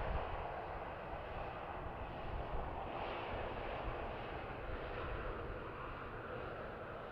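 Boeing 737-800's twin CFM56-7B turbofan engines running, a steady rush of jet noise over a low rumble that eases slightly toward the end.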